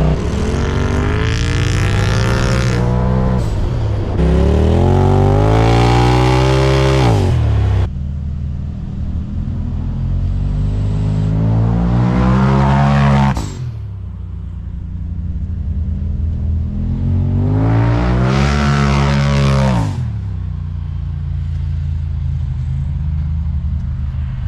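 Turbocharged Polaris RZR twin-cylinder engine breathing through an aftermarket full exhaust, revved loudly four times. Each rev climbs in pitch for a few seconds, then cuts back to a lower idle.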